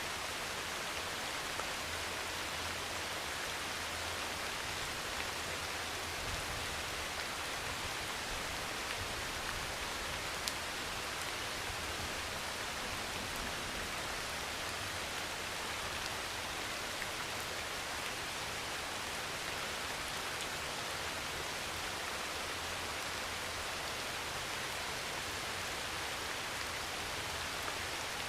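Steady heavy rain on a metal roof, an even hiss with a few single drop ticks scattered through it.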